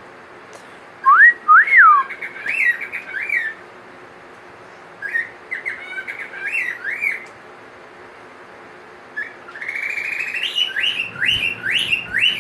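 Pet cockatiel whistling and chirping in three runs of quick rising-and-falling whistled notes, the loudest two coming about a second in. These are unusual calls that the owner takes to be mimicry of the tropical birds at the store where he was bought.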